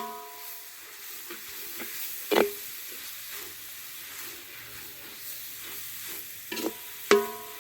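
Food sizzling in a pan as it is stirred, with a metal spoon clanking and ringing against the pan three times.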